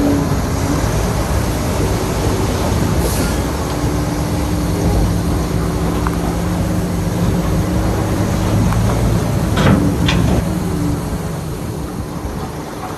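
Crawler bulldozer's diesel engine running steadily under load, with a rumbling clatter and two sharp metallic knocks about ten seconds in.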